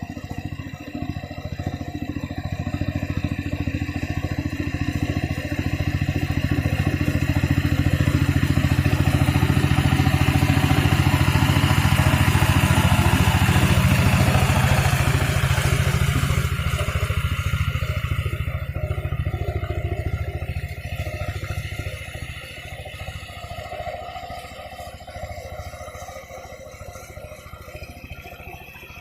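A mini tractor's engine running with a fast, even chug. It grows louder to a peak about halfway through, then fades as the tractor moves past and away.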